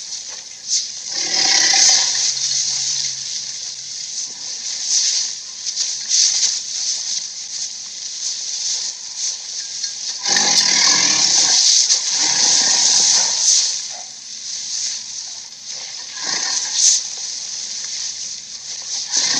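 Giant ape (Kong) sound effects: harsh, noisy surges over a steady hiss, a short one about a second in, a longer one of about three seconds starting around ten seconds in, and a brief one near the end.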